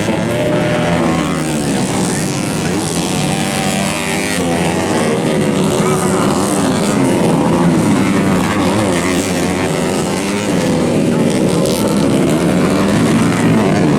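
Several motocross bikes racing together, their engines revving up and down over one another without pause.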